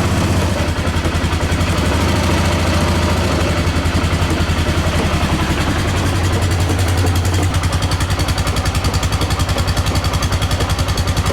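2010 Polaris Sportsman 500 HO's single-cylinder four-stroke engine idling steadily while it warms up just after a cold start in deep cold. About seven seconds in, its note shifts and the beat of the idle becomes more distinct.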